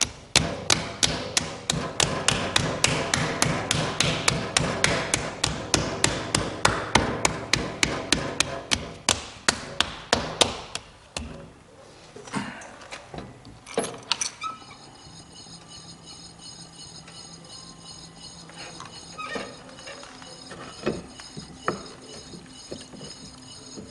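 A rapid, even series of hard knocks, about five a second, for roughly the first eleven seconds, then a few scattered single knocks.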